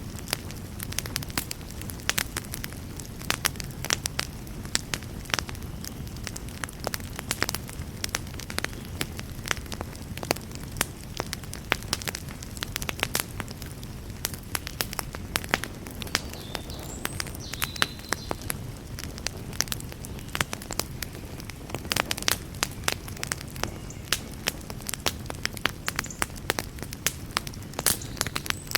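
Wood fire burning in a fireplace: a dense run of irregular crackles and sharp pops over a steady low rumble of the flames.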